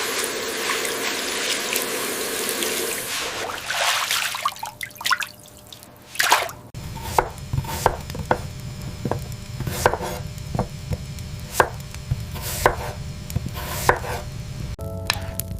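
A steady hiss of rain for the first few seconds, then a kitchen knife chopping on a wooden cutting board in separate strokes about once a second.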